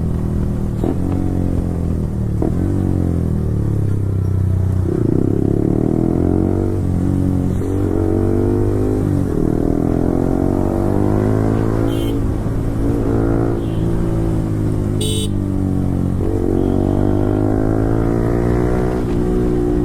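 Yamaha R15 V4's single-cylinder engine through an Akrapovic full-system exhaust, revs climbing and dropping several times as the bike accelerates and changes gear. A short high beep sounds about three quarters of the way through.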